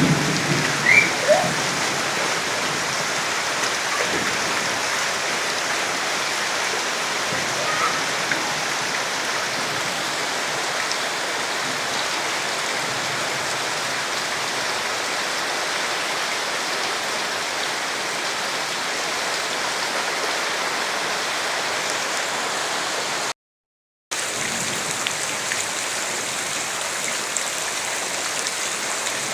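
Steady rain falling, an even hiss of drops, with a few short chirps just after the start. The sound cuts out completely for under a second about 23 seconds in, then the rain resumes.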